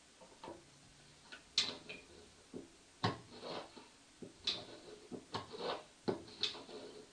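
Irregular knocking and clicking in a small room, about fifteen short taps at uneven spacing. The sharpest come about one and a half and three seconds in, and a quicker run follows in the second half.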